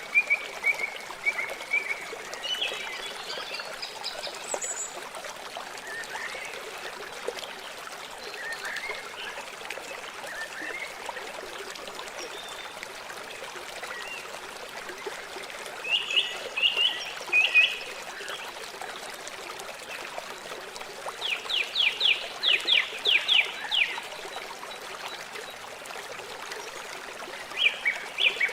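River water flowing steadily, with birds calling now and then over it. There are bursts of rapid repeated calls, the longest about two-thirds of the way through and another near the end.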